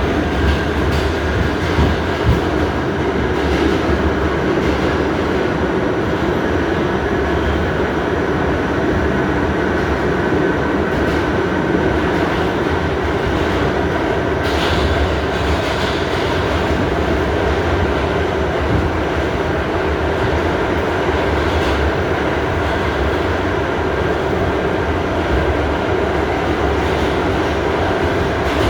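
Interior of an R68A New York City subway car running along the track: a steady rumble with a faint steady whine, and now and then a sharp click of the wheels over the rail joints.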